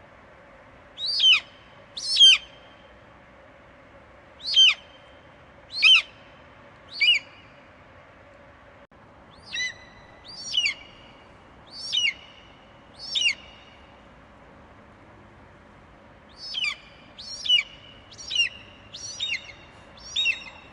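Eagle giving short, high screech calls that fall sharply in pitch, in three runs: five calls about a second apart, four more after a short pause, then a quicker run of five near the end. A steady faint hiss sits underneath.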